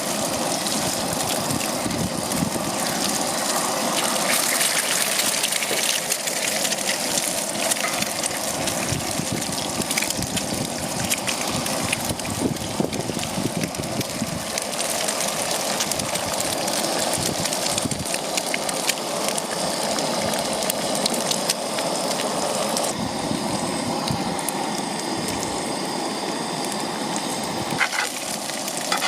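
Eggs frying in bacon fat in a cast iron skillet: a steady sizzle with many small pops of spitting grease.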